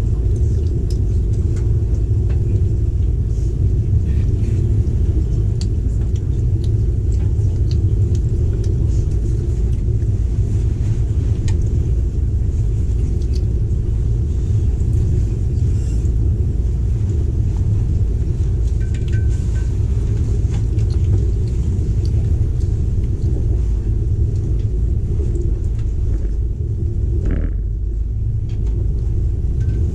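Steady low rumble of a moving passenger train heard from inside the carriage, with faint clicks and rattles over it.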